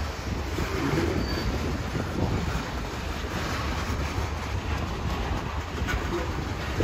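Freight train of covered hopper cars rolling past, its steel wheels rumbling steadily on the rails, with a few clacks as the wheels cross rail joints.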